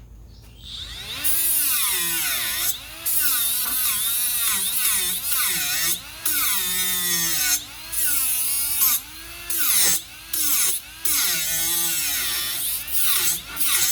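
Electric power tool working steel, its motor whine sagging and recovering as it is loaded, with several short stops and restarts.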